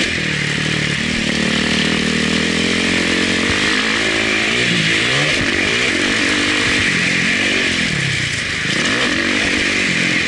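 Motocross dirt bike engine heard onboard, its pitch rising and falling again and again as the throttle is opened and closed, with a steady hiss underneath.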